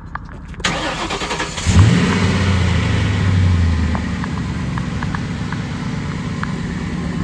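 Ford Mustang GT's 4.6-litre two-valve V8 being started after sitting for nine days: it cranks for about a second, catches with a brief rise in revs, then settles into a steady idle through the quiet stock exhaust.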